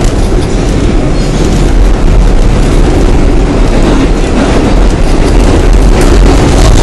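Loud, steady rumble and rail noise of a moving train, heard from inside the carriage.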